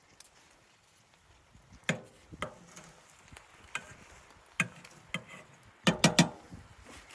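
A series of sharp knocks and clacks at irregular intervals, ending in a quick run of three that are the loudest.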